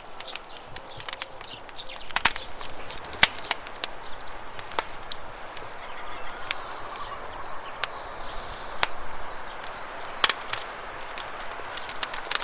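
Wood campfire crackling, with irregular sharp pops and snaps, over the steady rush of running river water.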